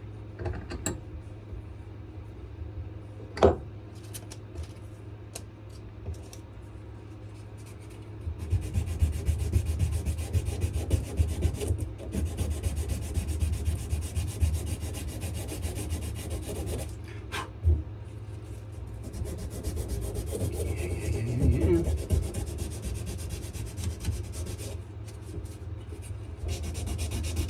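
Sandpaper rubbing on a wenge-and-maple knife handle, the dense scratchy strokes growing louder and steadier about eight seconds in. A sharp click sounds about three and a half seconds in.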